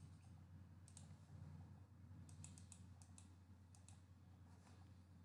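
Near silence with a steady low hum and about a dozen faint sharp clicks in small clusters, like computer keyboard or mouse clicks.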